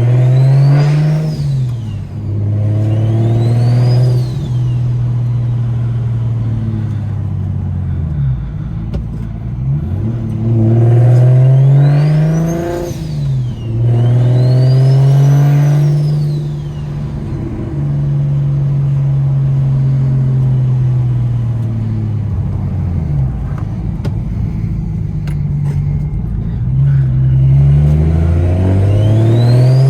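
BMW N54 3.0-litre straight-six with a DocRace single-turbo kit, heard from inside the car, pulling through the revs. The engine note climbs and drops about five times as the car accelerates and shifts, with a high whine rising and falling alongside it. The exhaust runs without a resonator.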